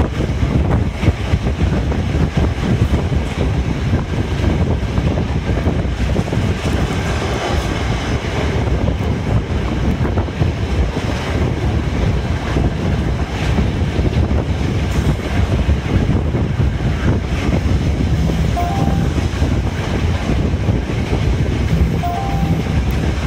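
Passenger carriage of a steam-hauled train running at speed, heard from an open window: a steady rumble of wheels on the rails mixed with rushing air.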